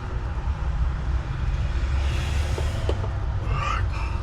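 Steady low rumbling background noise with a couple of faint small clicks about three seconds in.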